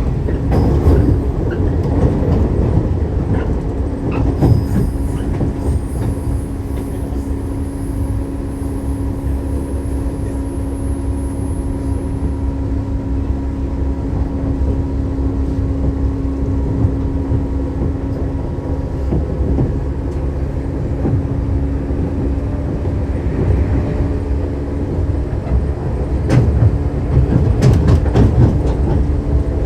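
Shinano Railway 115-series electric train running between stations, heard from inside the car: a steady rumble of the wheels and bogies under a held hum from the MT54 traction motors. Several sharp clicks of the wheels over the rails come near the end.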